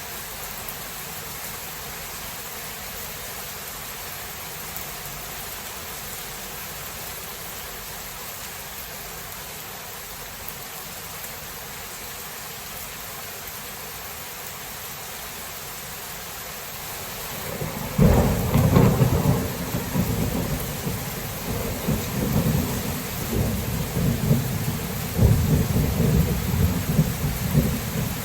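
Steady rain falling, then about two-thirds of the way in a loud roll of thunder breaks in suddenly and keeps rumbling in repeated swells over the rain.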